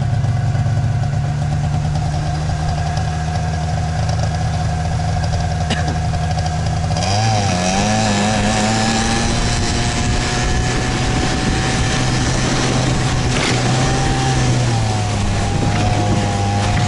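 Vehicle engine running loudly close by with a steady low drone. About seven seconds in its pitch rises and wavers as the engine picks up revs.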